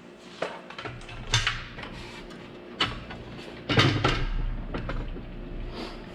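Metal clanks and knocks from handling a miter saw and the steel mounting brackets of its stand, several separate sharp knocks with the loudest cluster just past the middle.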